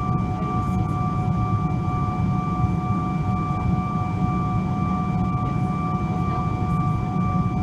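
Boeing 777-200ER's GE90 jet engines running steadily, heard inside the cabin: a low rumble with several steady whining tones that neither rise nor fall.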